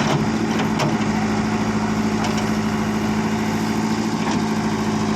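Tractor diesel engine running steadily at an even, unchanging speed, with a few faint clicks over it.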